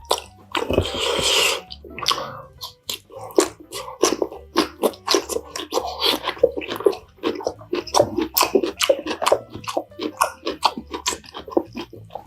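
Close-miked eating sounds: continuous chewing with many quick, irregular crisp clicks and smacks. A longer noisy sound comes about a second in.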